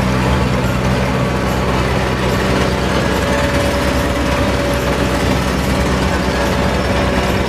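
A heavy vehicle's engine running steadily at idle: an even low hum with a hiss of noise over it.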